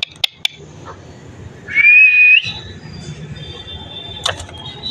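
Pet parrot giving one short, clear whistle that rises slightly and lasts under a second, with a few sharp clicks near the start and again near the end.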